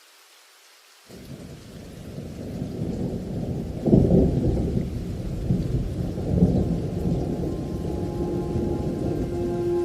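Rumble of thunder over steady rain, breaking in suddenly about a second in after faint rain hiss and swelling to its loudest around four seconds before rolling on.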